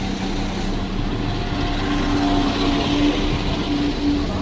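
A train's engine running steadily, a low hum held at a constant pitch.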